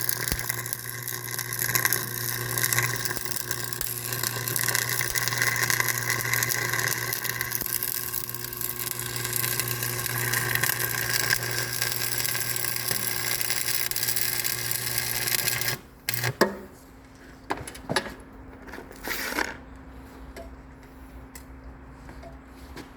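A motor-driven machine running steadily with a constant hum and hiss, which cuts off abruptly about sixteen seconds in. A few short knocks and clatters follow.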